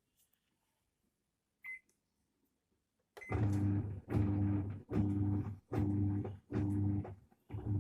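Washing machine wash motor humming in short pulses about every 0.8 s with brief gaps, turning the pulsator back and forth through a wash cycle. The freshly installed motor is running normally. A short electronic beep comes just before it starts, about three seconds in.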